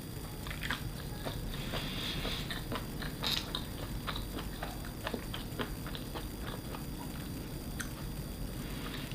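A person chewing baby octopus in a thick sauce close to the microphone: a steady run of small mouth clicks, with a louder click about three seconds in.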